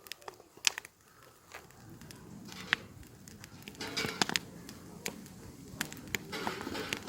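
Wood campfire crackling: irregular sharp pops and snaps over a low, steady hiss of burning.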